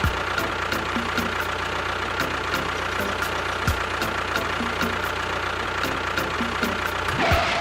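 A small engine running steadily with a fast, even ticking. The sound swells briefly and cuts off suddenly at the end.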